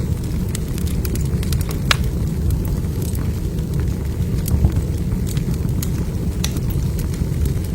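Log fire burning in a fireplace: a steady low rumble with scattered crackles and pops, a sharper pop about two seconds in.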